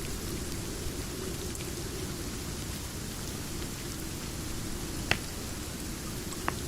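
Steady rain, a low-pitched even wash. Two sharp pops from a crackling wood fire come about five seconds in and again near the end.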